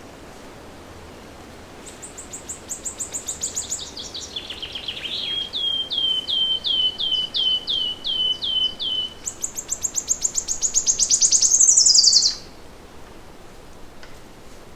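A songbird sings one long phrase. It opens with a fast run of high notes that slide lower and lower, settles into clear repeated notes about two and a half a second, then ends in a rapid, very high trill that climbs and stops suddenly. A steady hiss of forest background runs underneath.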